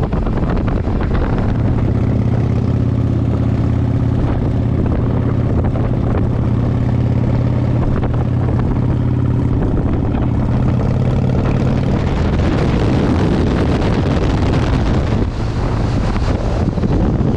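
Vehicle engine running steadily under heavy wind rumble on a GoPro action camera's microphone. About twelve seconds in, the engine note fades and the wind noise gets louder.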